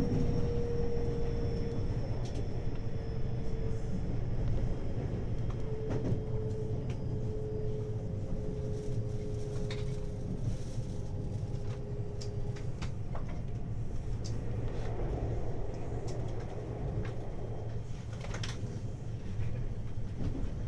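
521-series electric multiple unit running on the line, heard from inside the car: a steady rumble of wheels on rail with scattered clicks and knocks, and a faint whine that slowly drops in pitch during the first half.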